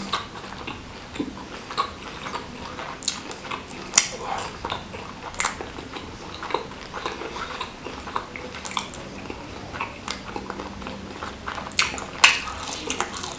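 Close-miked chewing and biting of a mouthful of salted squid sambal: irregular wet smacks and clicks from the mouth.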